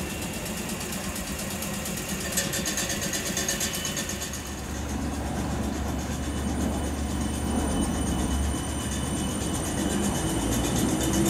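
South Western Railway electric multiple unit running past the platform: a steady rumble of wheels on rail that grows a little louder toward the end, with a low hum coming in about halfway through.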